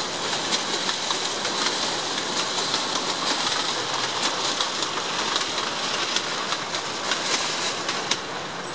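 Bord na Móna narrow-gauge peat train approaching slowly: a steady rattling and clattering of wheels on rail and loose wagons, with many sharp clicks.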